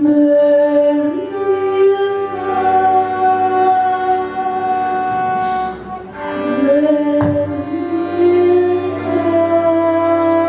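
A singer holding long, slow notes that glide between pitches, with musical accompaniment underneath. A brief click about seven seconds in.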